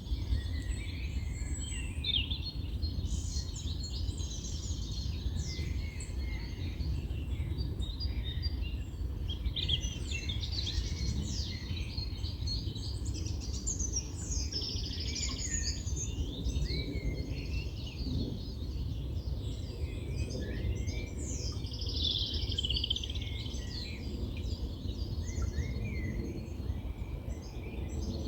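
Several songbirds singing at once, a continuous tangle of short high chirps and trills, over a steady low rumble.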